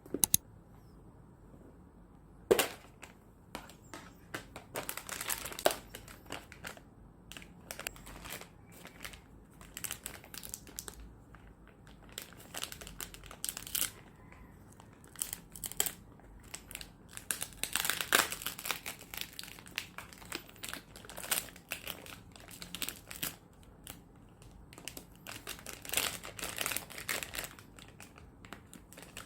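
Packaging being handled, crinkling and rustling in many short, irregular crackles that come and go in bursts, with a couple of sharp knocks near the start.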